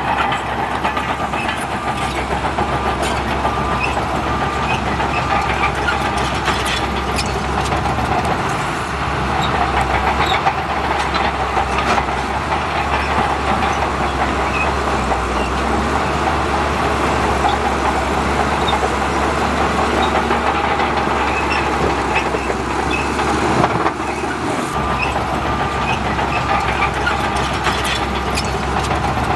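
Bulldozer's diesel engine running steadily with the clatter of its steel crawler tracks, and scattered metallic clanks.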